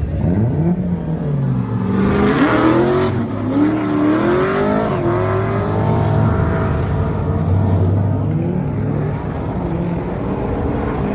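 Car engine revving: the pitch climbs over the first few seconds and rises and falls a few times, then the engine settles to a steadier, lower note.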